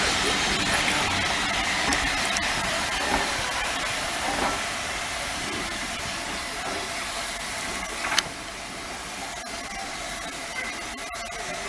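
Steam locomotive letting off steam: a steady hiss that slowly eases off, with a sharp click about eight seconds in.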